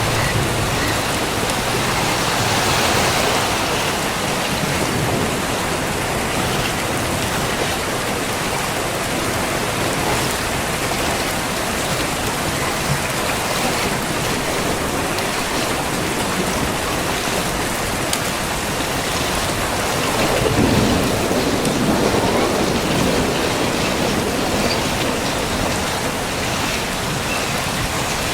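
Heavy rain pouring down steadily, with a louder swell about two-thirds of the way through.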